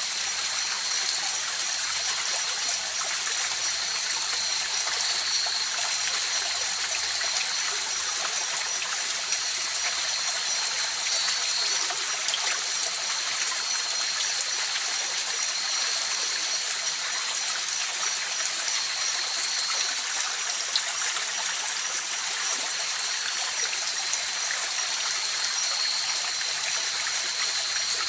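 River water flowing steadily, an even, unbroken rush, with a faint steady high-pitched tone running through it.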